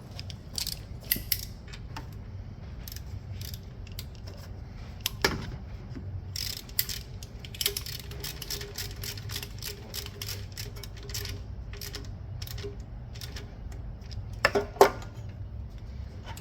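Metal hand tools and fittings clicking and clinking while a replacement alternator is fitted, with a louder knock about five seconds in and two sharp knocks near the end, over a steady low hum.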